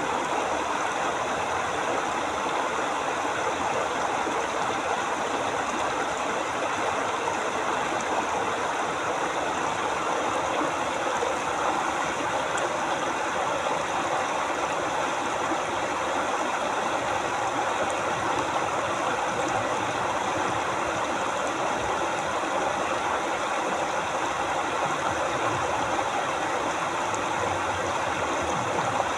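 A river flowing steadily: an even, unbroken hiss of running water.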